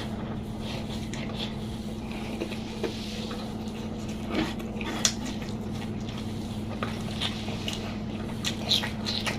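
A person chewing food close to the microphone, with scattered small wet mouth clicks and smacks at irregular intervals, over a steady low hum.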